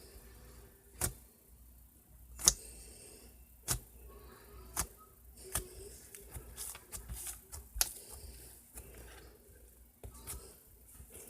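Slime being worked by hand, giving sharp popping clicks about once every second or so, with a run of smaller crackles in the middle.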